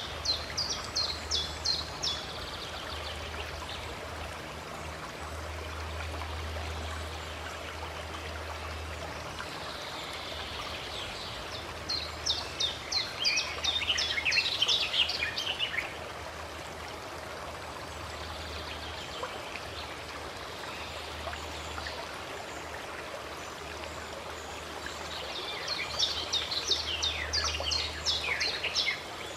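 Stream water running steadily, with a songbird singing three phrases of rapid repeated high notes: one near the start, one in the middle and one near the end.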